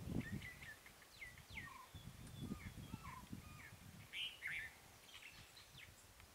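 Wild birds calling: many short whistles and chirps, several sliding down in pitch, with a denser burst of chirping about four seconds in. Underneath runs an irregular low rumble, loudest at the start.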